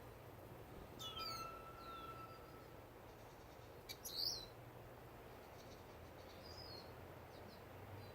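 Finches chirping: a few scattered short chirps and quick falling calls, with a thin held whistle from about a second in and the loudest chirp about four seconds in, over a steady low hum.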